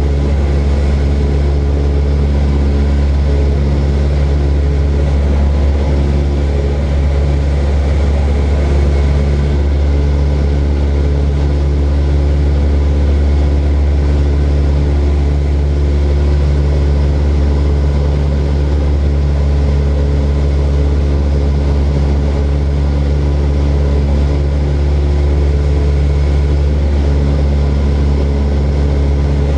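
Small propeller aircraft engine and propeller running at a steady drone, with a constant low hum and a stack of even engine tones that hardly change.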